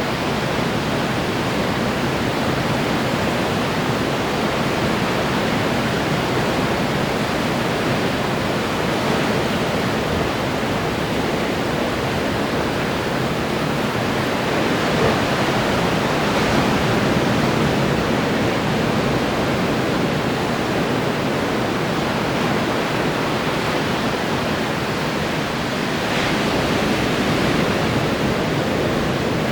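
Ocean surf breaking and washing ashore, a steady rushing wash that swells slightly about halfway through and again near the end.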